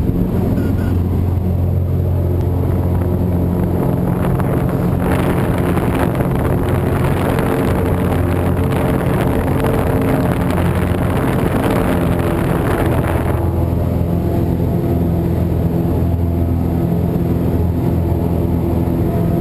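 Cessna 172's piston engine and propeller running steadily, a low even drone. A rush of air noise swells over it from about five seconds in and cuts off suddenly about eight seconds later.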